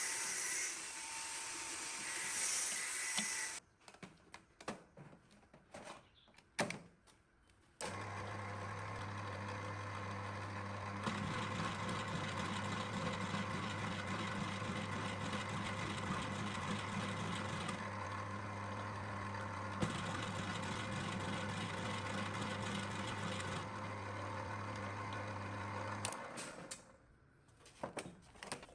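A hissing noise stops about three seconds in, followed by a few handling clicks. Then an electric motor starts and runs with a steady hum for about eighteen seconds, its sound shifting a few times, and cuts off, followed by more clicks.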